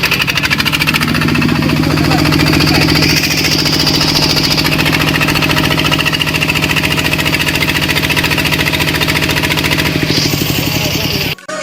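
Kubota-type RD120N single-cylinder diesel engine running at a steady speed just after starting, with an even knocking beat, while driving a high-pressure water pump. It cuts off suddenly near the end.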